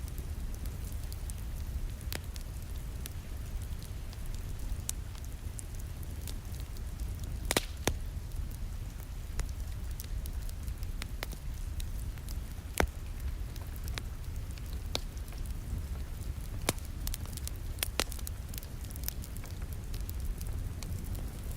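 Wood fire crackling in a fireplace, with scattered sharp pops (two louder ones about a third and about halfway through) over a steady low rumble, mixed with the soft, even hiss of rain against a window.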